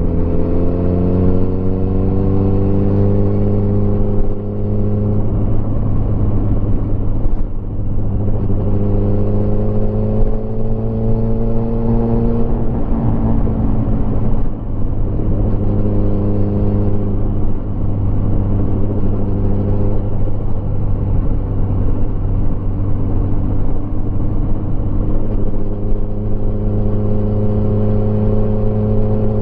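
Motorcycle engine under way, rising in pitch as it accelerates through the gears in the first few seconds and again around the middle, dropping at about 13 seconds, then holding a steady cruise. Wind and road noise run underneath.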